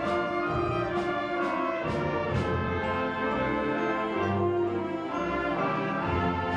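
School wind band playing: brass and woodwinds hold chords over percussion strikes about twice a second, which stop about two and a half seconds in, leaving the band sustaining its chords.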